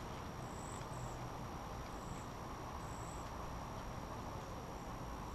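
Outdoor background sound: a steady low rumble with short, high-pitched chirps about once a second.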